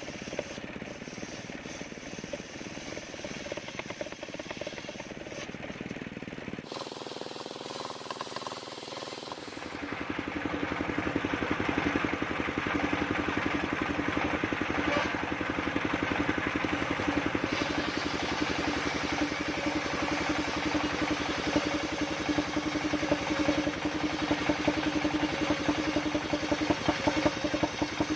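Engine-driven mobile circular sawmill running steadily with a rapid, even engine beat. It changes character briefly about seven seconds in, then runs louder and brighter from about ten seconds in.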